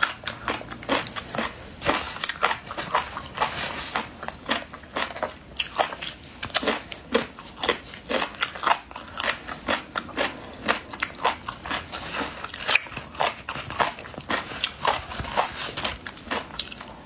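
Close-miked eating: crisp crunching and chewing of a spicy snack, with sharp crackling bites coming several times a second.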